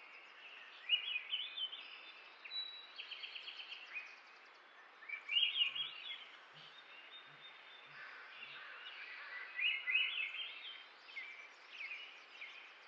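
Small birds chirping and singing in repeated short phrases over a steady background hiss, with a quick trill about three seconds in.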